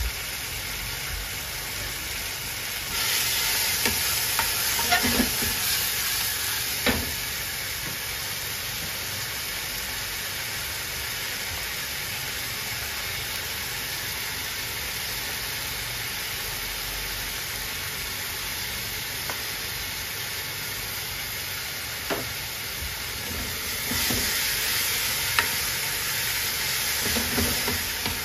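Kimchi sizzling in oil in a frying pan, a steady hiss throughout. The hiss grows louder for a few seconds about three seconds in, and again near the end while the pan is stirred, with a few clicks of the utensil against the pan.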